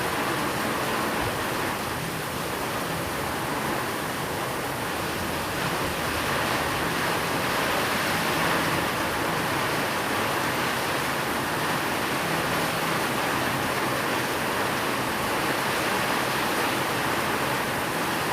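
Steady rain falling, a dense, even hiss blended with white noise.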